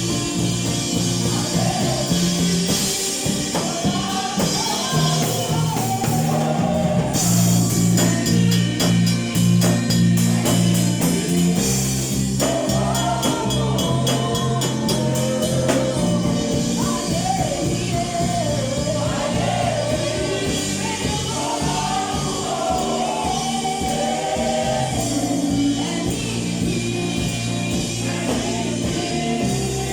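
A choir singing with band accompaniment: held bass notes under the voices, with drums and cymbals that grow fuller about seven seconds in.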